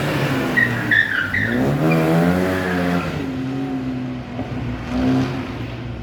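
Rally car engine revving, climbing in pitch about two seconds in and then running steadily, with short tyre squeals early on as the car slides through a handbrake drift.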